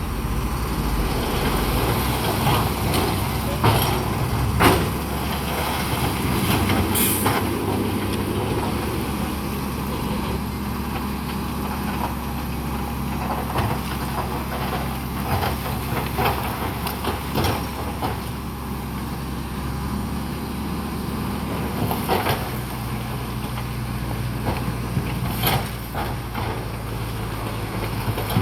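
Heavy diesel earthmoving machinery running steadily, with scattered metallic clanks and knocks and a short hiss about seven seconds in. The engine note changes about two-thirds of the way through.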